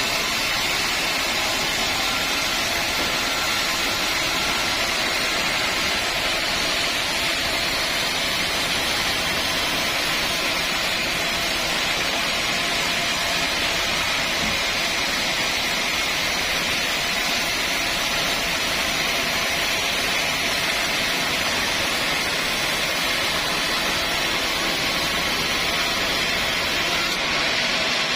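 Sawmill saw running, a loud, steady machine noise that holds unchanged throughout.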